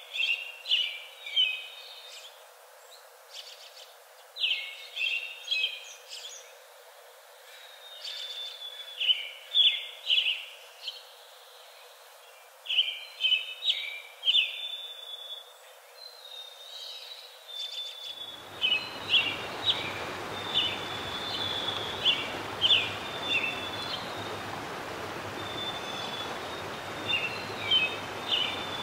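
Birds chirping and singing in short repeated high phrases over a steady background hiss; about two-thirds of the way through the hiss becomes fuller and deeper.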